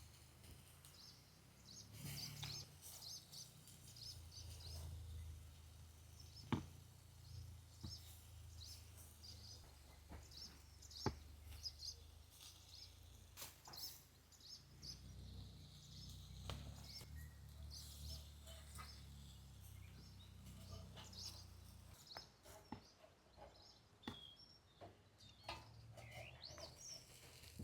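Faint birds chirping repeatedly in a forest over a low rumble, with a few sharp clicks or knocks, the loudest about six and eleven seconds in.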